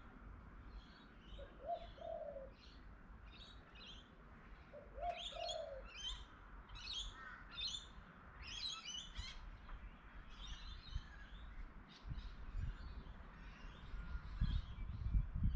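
Small birds chirping in quick, repeated high notes, with a pigeon or dove giving a low coo twice in the first half. Low thumps build near the end.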